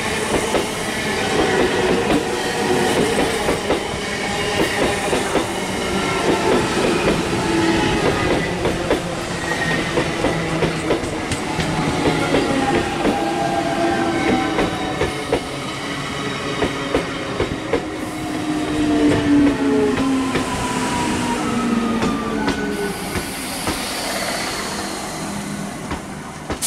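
ICF Medha electric multiple unit train rolling past at close range, its wheels clicking rapidly over rail joints, with whining tones that fall slowly in pitch as it slows into the station.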